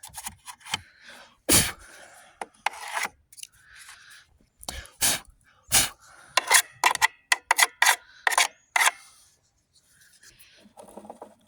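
Hands working on the plastic housing of an upright Hoover vacuum cleaner: irregular sharp clicks and knocks with rubbing and scraping between them, coming thickest past the middle and fading to a softer scrape near the end.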